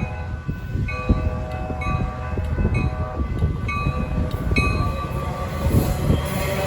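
A train passing close by, a low rumble with a steady clatter of wheels on rails. Its multi-tone horn blows through, louder from about a second in, breaking off briefly after about three seconds and again after four and a half.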